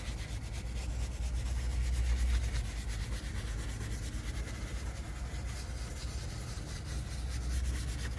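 Steady rubbing and scrubbing of engine-bay surfaces during cleaning, a continuous run of fine scratchy strokes over a low rumble.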